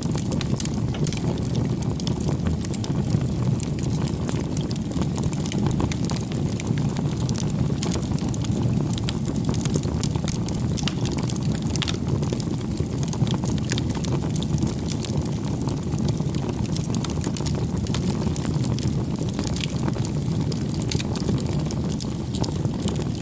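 Wood bonfire burning: a steady low rush of flames with frequent small crackles and pops scattered throughout.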